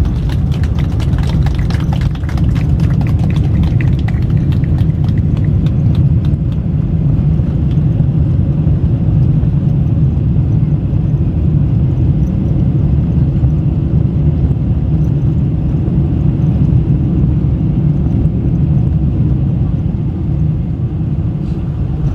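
Boeing 747-400 during its landing: a loud, steady low rumble. A light rattle over it in the first six or seven seconds dies away.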